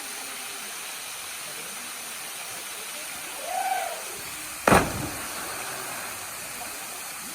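Steady rush of a waterfall pouring into its pool. About halfway through a short rising-and-falling call is heard, then a single sharp, loud splash that dies away over about a second, as of a body hitting the water.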